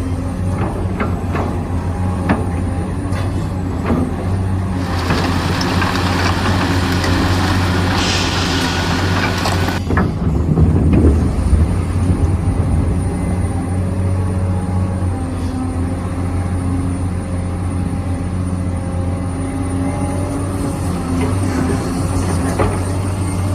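Remote-control Volvo excavator model running: a steady low hum, with a brighter hiss from about five to ten seconds in as it works.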